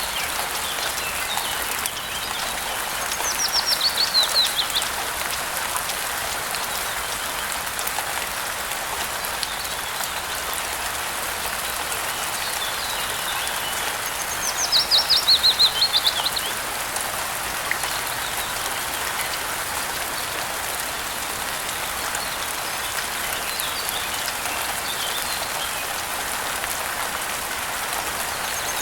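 Steady rain falling, with a songbird singing twice, each time a fast run of notes that steps down in pitch over about a second and a half, about 3 seconds in and again about 15 seconds in, and fainter chirps between.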